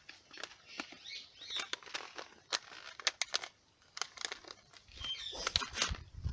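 Scattered light clicks and rustling of a seed packet and seeds being handled, with a couple of faint bird chirps.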